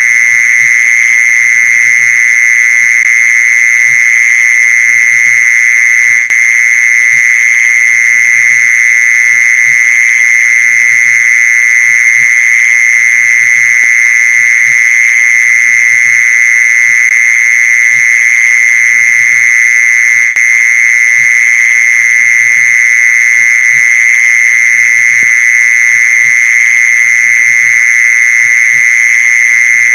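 Mole cricket song: one unbroken, steady high-pitched trill, the calling song played to lure mole crickets.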